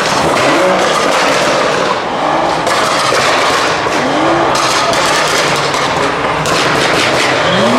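Car engines blipping the throttle, with a rapid run of crackling exhaust pops and bangs. Several short rising revs come about half a second in, near three seconds, around four seconds and near the end.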